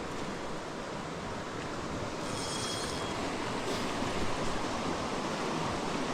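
Steady rushing of flowing creek water, with a brief faint high rattle a little over two seconds in.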